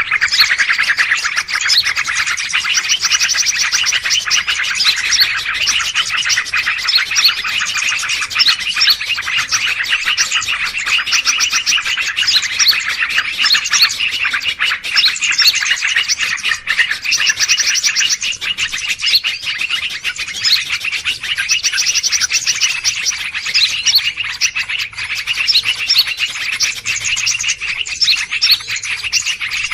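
A dense, unbroken chorus of many small birds chirping rapidly and excitedly, with notes packed closely together. It is a noisy, agitated bird-call recording of the kind used to lure wild birds.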